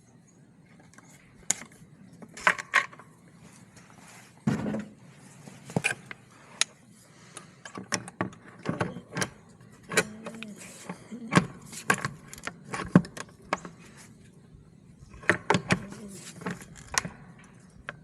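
Scattered sharp metallic clicks, clinks and rattles of high-tensile fence wire and tools being handled while wire is strung through fence posts. They come in small irregular clusters, with a duller knock about four and a half seconds in.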